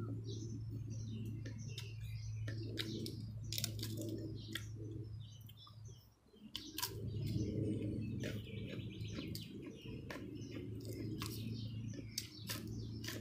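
Birds chirping, over a steady low hum and scattered short clicks.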